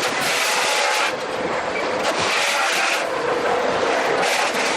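Sawmill log debarker running, a loud dense grinding and rattling that swells and eases about once a second as bark is stripped from hardwood logs.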